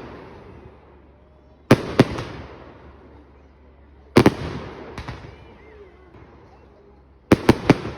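Aerial firework shells bursting in sharp bangs, each followed by a long rolling echo. Two bangs come about 2 s in, one more at about 4 s with a smaller one a second later, and three in quick succession near the end.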